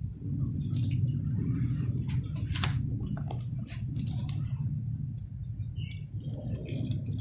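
Toys being handled and moved about: scattered clicks and scrapes over a steady low rumble.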